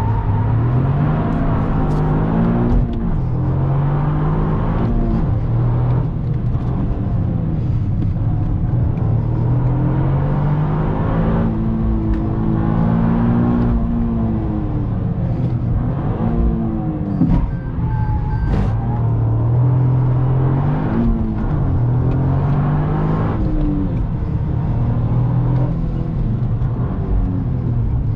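Toyota GR Yaris's turbocharged 1.6-litre three-cylinder engine heard from inside the cabin, pulling hard with its pitch rising again and again and dropping at each gear change or lift off the throttle.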